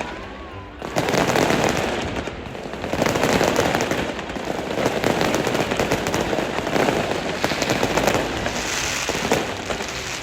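Fireworks display going off, starting about a second in: dense crackling mixed with bangs, swelling and easing in waves.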